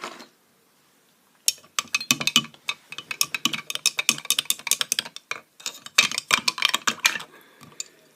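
Fast, irregular clicking and clattering of hard art supplies being handled, in two runs: one of about three seconds and a shorter one of about a second and a half.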